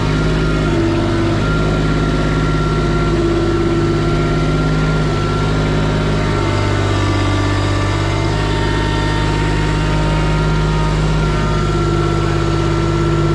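A Kubota machine's engine running steadily at idle, with a faint higher whine that comes and goes.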